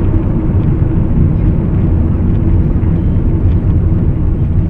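Steady low rumble of a moving vehicle's engine and road noise picked up by a dash-cam microphone, with no impact or crash sound.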